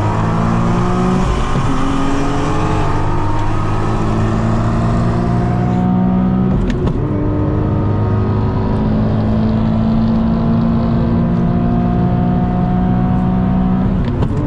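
Car engine accelerating hard through the gears, its pitch climbing steadily, with an upshift about seven seconds in and another near the end.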